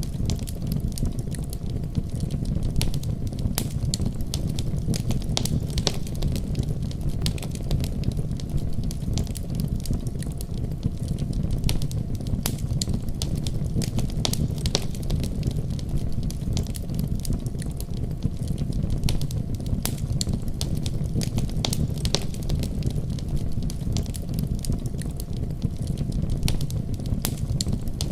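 Wood fire burning in a fireplace: a steady low rumble of flames with frequent sharp pops and crackles of burning wood.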